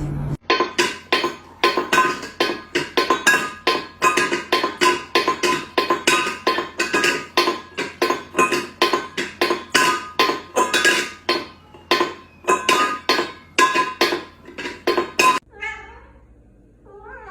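A cat meowing over and over in short, rapid calls, about three a second, that start suddenly and stop near the end.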